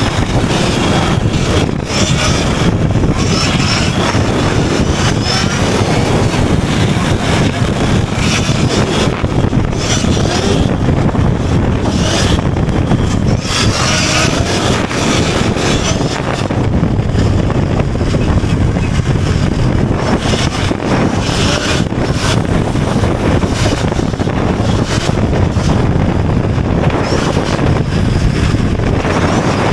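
Steady wind rush on the microphone and road noise while riding a Sur-Ron electric dirt bike at speed, with no engine sound.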